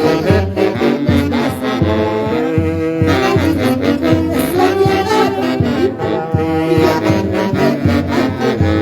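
Dance band music with horns, saxophones and brass, playing a melody over a steady bass beat.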